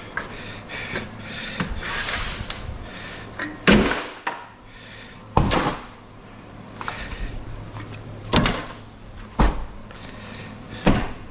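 Scrap metal being handled and dropped: about five sharp bangs a second or two apart, with scraping and rattling between them.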